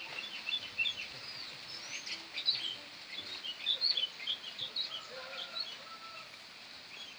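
Small birds chirping: many short, high chirps from several birds overlapping throughout.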